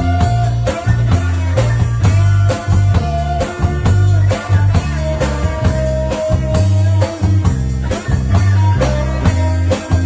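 Rock band playing an instrumental passage: bass guitar, drum kit and electric guitar, with a steady beat and held melody notes.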